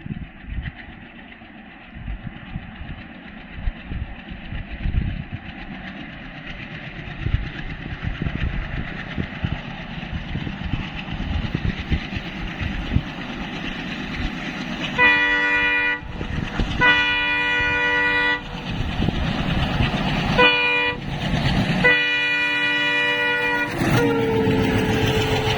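A diesel locomotive-hauled train approaching with a building rumble and wheel clatter, then sounding its horn in four blasts, the last the longest. Near the end a lower-pitched tone follows as the train passes.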